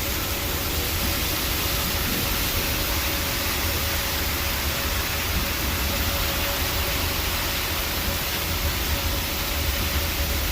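Heavy rain pouring down steadily with a low rumble underneath, and the distant tornado warning siren holding a faint steady tone.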